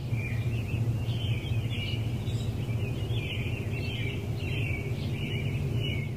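Small birds chirping continuously over a steady low hum.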